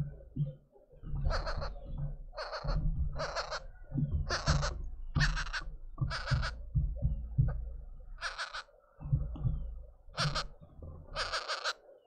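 A bird's harsh, raspy calls, about nine short cries roughly a second apart, over low thuds and rumbling.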